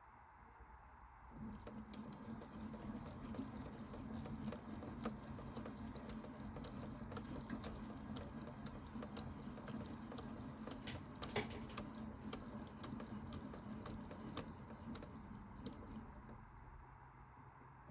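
Toy washing machine, modelled on a Bosch Logixx 8, running a wash cycle: its small motor starts about a second in with a steady hum, and soft clicks and patter come from the turning drum. It eases off near the end.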